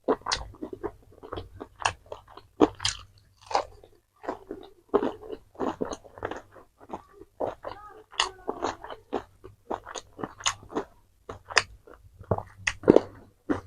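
A person chewing and biting into crunchy fried fast food close to the microphone, with irregular crunches throughout and a brief hum about eight seconds in.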